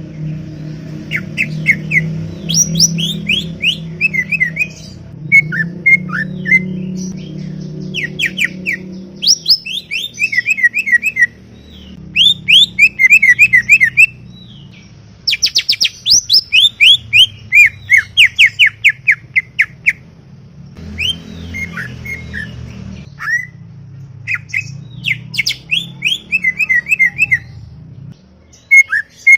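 Greater green leafbird (cucak ijo) singing a chattering song of quick, sharp, falling whistled notes in phrase after phrase with short pauses, over a low steady hum.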